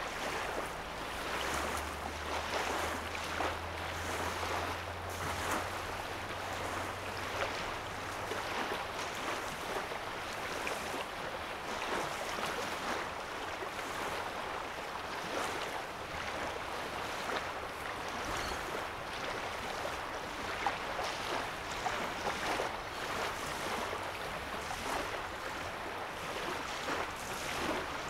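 Small lake waves lapping and splashing at a sandy shoreline, a steady wash of water broken by frequent small splashes. A low hum sits underneath for the first third, fading out at about eight seconds.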